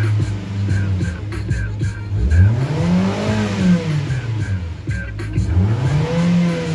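2007 Suzuki Grand Vitara's 2.0-litre four-cylinder petrol engine revving while parked, heard from inside the cabin: it runs at raised revs, is revved up and back down about halfway through, and is revved up again near the end. The engine has been tested as good.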